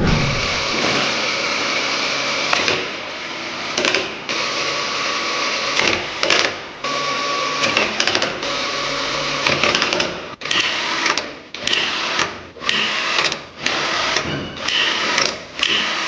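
A small motor-driven tool running steadily, broken into short segments by many abrupt cuts, more often in the second half.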